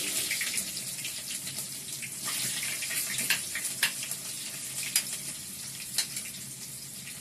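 Chopped onions sizzling in hot cooking oil: a steady hiss that slowly fades, with scattered pops and crackles.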